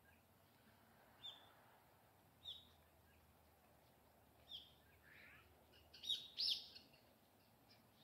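Wild birds calling: three short single chirps a second or two apart, then a louder cluster of quick calls about six seconds in.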